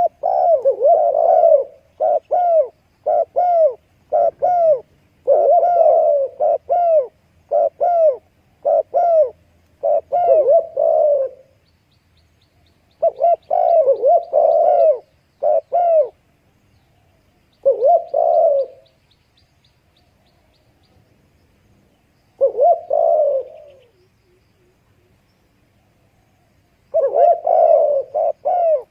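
Dove cooing: short, arched coos repeated in quick runs, then in separate clusters with pauses between them.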